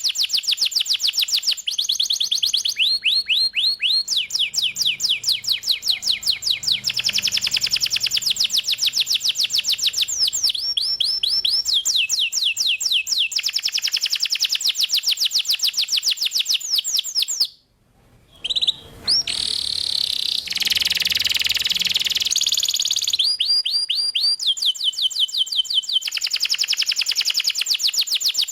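Canary singing continuously in long, fast trills of repeated high notes that switch to a new phrase every few seconds. The song breaks off briefly about two-thirds of the way in, runs on in a buzzier, rasping stretch, then returns to clear rapid trills.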